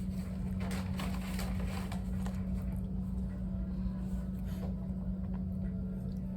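Car cabin noise: a steady low drone of engine and road rumble with a constant hum, and some faint rustling clicks in the first couple of seconds.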